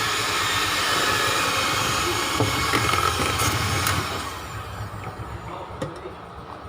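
Electric mixer running steadily as it beats cream cheese batter, then switching off about four seconds in.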